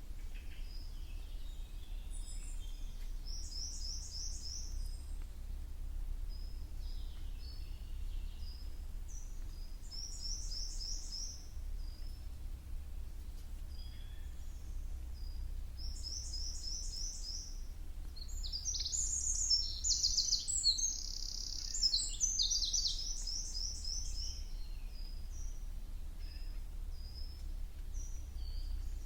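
Songbirds singing in a spring forest: short high phrases of quick descending notes, repeated about every six seconds, with a louder, busier burst of song about two-thirds of the way through. A steady low rumble lies beneath.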